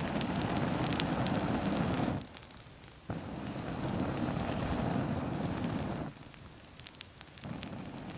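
Wood campfire crackling with sharp pops. Twice a steady rushing noise starts abruptly, runs for a couple of seconds and stops suddenly.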